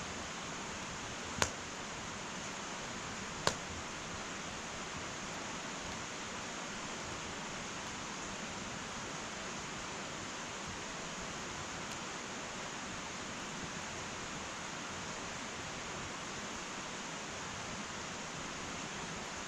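Wood fire burning in an irori hearth: a steady hiss with two sharp crackling pops, one about a second and a half in and another two seconds later.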